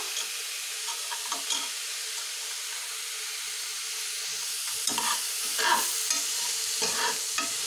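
Chopped onions frying in oil in an aluminium pressure cooker, with a steady sizzle. From about five seconds in, a metal ladle scrapes and stirs them in several strokes.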